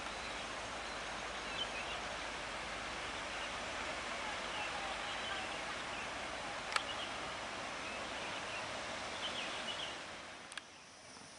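Steady outdoor rustling hiss with a few faint high chirps and a single sharp click; the hiss falls away near the end.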